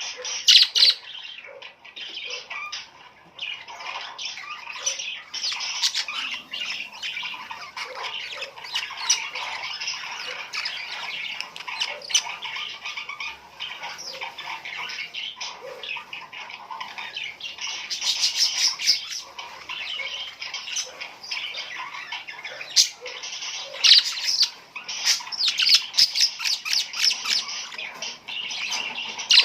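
Birds chirping and squawking, many calling at once without a break, with louder spells of calling about two-thirds of the way through and again near the end.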